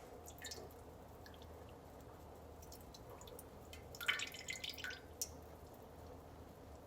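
Faint, scattered drips of urine, with a short burst of splashing dribbles about four seconds in.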